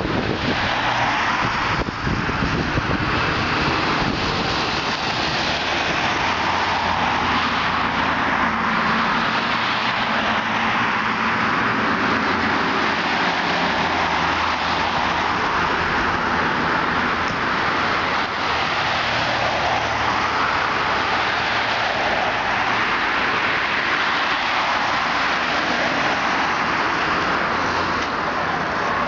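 Fire engine driving on a call: steady, loud engine and road noise that swells and eases slowly.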